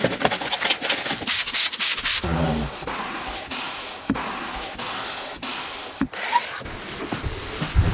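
Scrubbing and rubbing on a car during a wash: quick repeated strokes for about two seconds, then a steadier hissing wash sound broken by a few sharp cuts.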